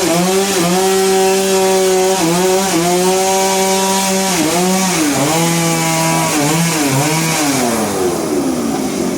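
A two-stroke chainsaw running at full throttle and cutting wood, its engine note dipping again and again as the chain bogs under load. Near the end the pitch slides down as the engine eases off.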